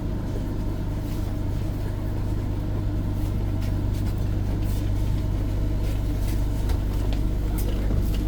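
Inside a tram: a steady low hum from the tram's equipment, with a light rumble and occasional small clicks and knocks.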